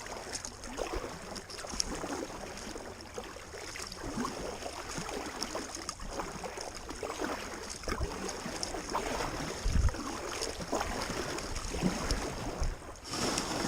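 Kayak paddle strokes splashing and dripping in lake water as the kayak is paddled hard toward shore, with a dull low thump about ten seconds in.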